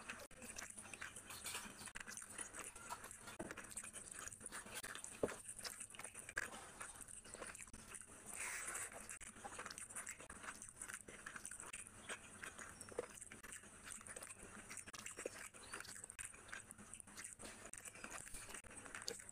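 Close-up eating sounds: chewing and wet mouth smacking while eating fish curry and rice by hand, a steady irregular run of small clicks and smacks.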